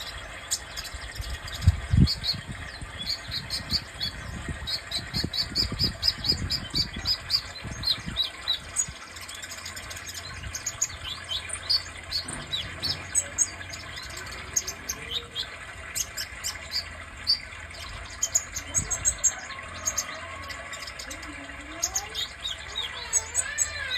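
Red-chested sunbird (kolibri dada merah) singing: a long run of rapid, high, thin chirps and short trills, densest in the first few seconds. Several low thumps come in the first third.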